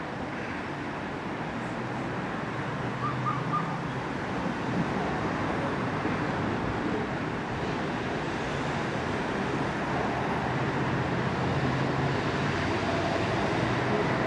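Class 455 electric train approaching, its steady rumble growing louder as it nears. A bird chirps briefly about three seconds in.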